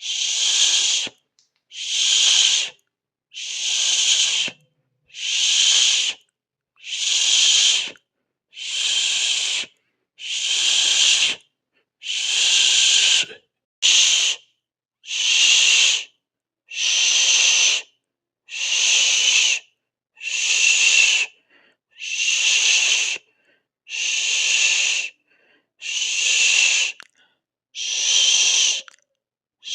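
A person hissing through the teeth, a 'sss' sound, over and over: about one hiss every two seconds, each lasting about a second, with silence between.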